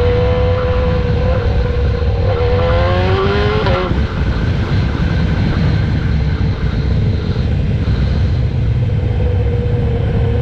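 BMW S1000RR inline-four engine running through a GP S1 aftermarket exhaust at its first start-up. The pitch climbs briefly in a small rev about three seconds in, drops back sharply, and settles into a steady, loud idle.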